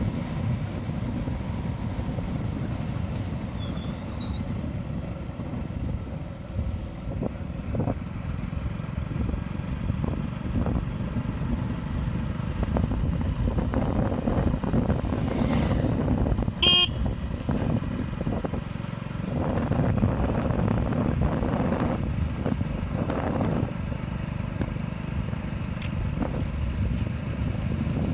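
Steady rumble of road traffic, with a short vehicle horn toot about two-thirds of the way through.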